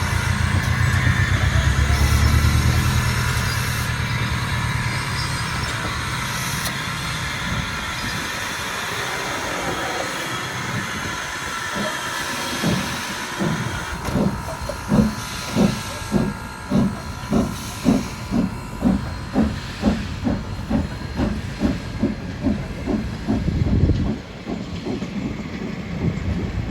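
Steam locomotive Soo Line 1003, a 2-8-2 Mikado, working under steam: a low rumble and steam hiss at first, then exhaust chuffs setting in about halfway through, beating steadily at roughly two a second and quickening slightly before they fade near the end.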